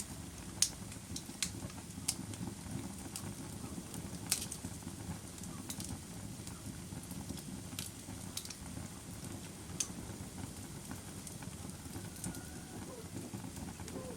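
Wood fire crackling: sharp, irregular pops and snaps, about a dozen in all, over a steady low rush from the burning fire.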